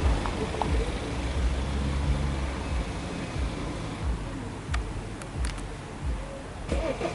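Light propeller aircraft engine fading as it draws away, with gusty wind rumbling on the microphone and a few faint clicks about five seconds in.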